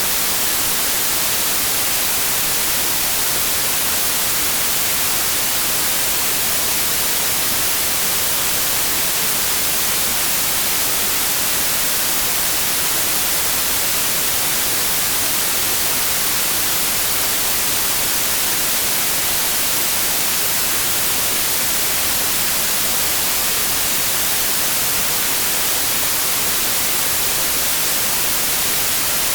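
Steady, unchanging white noise: an even hiss, brightest in the high end, with no rhythm or change.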